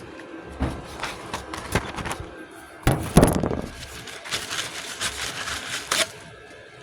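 Glass cleaner and paper towel at work on a truck's body panel: irregular rustling and rubbing, with a louder burst about three seconds in and a longer scratchy stretch of wiping near the end.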